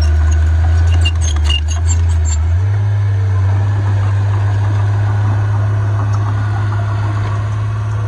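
Heavy earthmoving-machine diesel engine running steadily, its low note stepping up a little about two and a half seconds in. A few sharp clicks and squeaks sound in the first couple of seconds.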